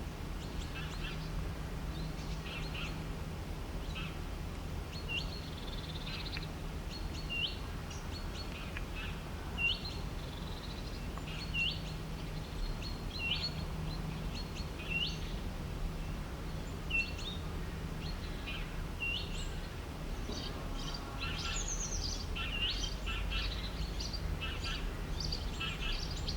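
Birds calling outdoors: one bird repeats a short, high, hooked upward note every second or two, and about two-thirds of the way through several birds break into busier chirping. A steady low hum and rumble run underneath.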